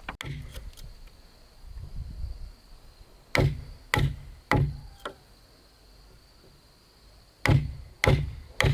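Hard strikes on wood, as in chopping or hammering timber, in two sets of three blows about half a second apart, with lighter knocks between.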